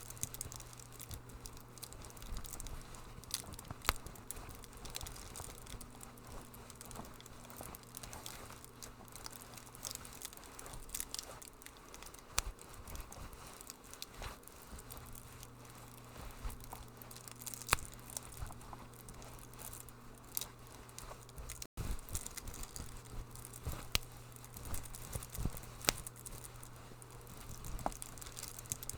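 Wood fire crackling in a fireplace, with irregular sharp snaps and pops over a steady low hum.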